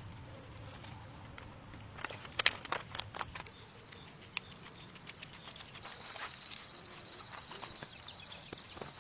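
A quick run of sharp clicks and snaps about two seconds in, over a steady high insect drone. A rapidly pulsing insect trill joins about six seconds in.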